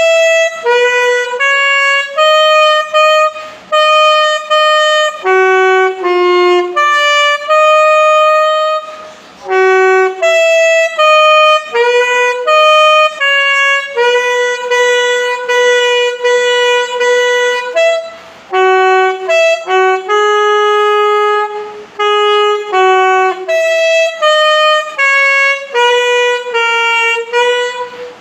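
Solo saxophone playing a slow hymn melody, one note at a time, with short breaks for breath between phrases.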